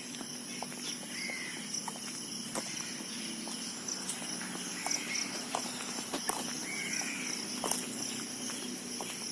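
Steady, high-pitched insect drone with a bird's short call three times, over scattered footstep clicks on a path.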